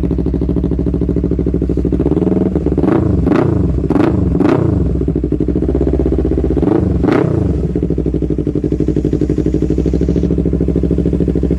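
250cc motorcycle with a Proliner racing exhaust idling, blipped on the throttle four times in quick succession a couple of seconds in and once more around seven seconds in, each rev rising and dropping back to a steady idle.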